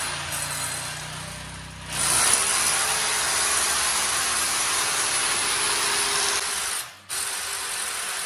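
Electric drill boring a hole into a wall to take a wall tie. The motor winds down over the first two seconds, starts again and runs steadily, then stops briefly about seven seconds in before starting once more.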